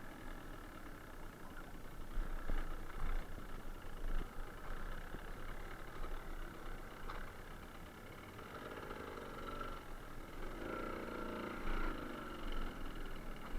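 Suzuki TS125R's single-cylinder two-stroke engine running as the bike rides along, with a couple of louder stretches in the second half.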